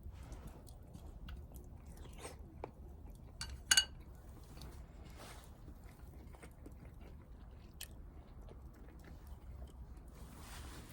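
Close-up eating: chewing with small crunches and clicks. Just under four seconds in there is one short, ringing clink, the loudest sound.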